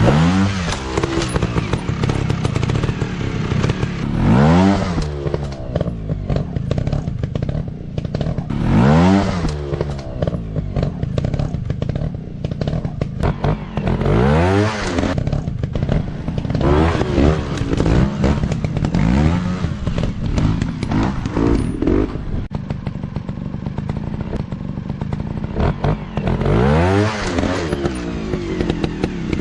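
Dirt bike engines revving hard in repeated bursts, each rev a quick rising whine that falls back, about seven times, over the rough running of the bikes, with clattering and scraping mixed in.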